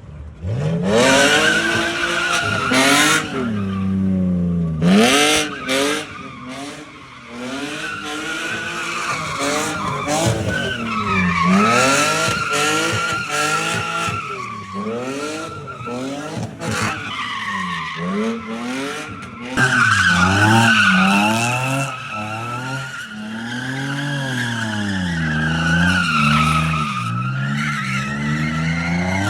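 A car drifting: its engine revs up and down over and over beneath a near-continuous tyre squeal. Several sharp cracks sound in the first few seconds.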